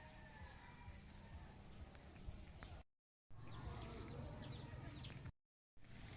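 Faint outdoor ambience of small birds chirping in quick, arched calls, over a steady high-pitched whine and a low rumble. The sound cuts out completely twice, about three seconds in and near the end.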